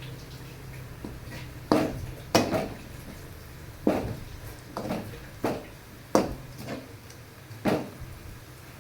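A metal spatula knocking and scraping against a frying pan while frying onions are stirred: about seven sharp, irregular clacks over a low steady hum.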